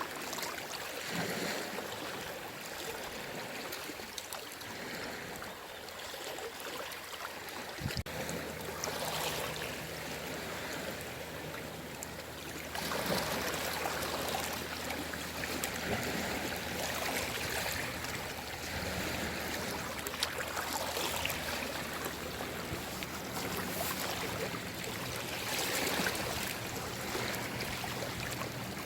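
Small waves washing in on the shore in repeated gentle swells, with the sound of water surging and draining.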